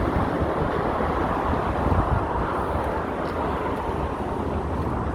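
Steady road traffic noise from cars driving along a city avenue.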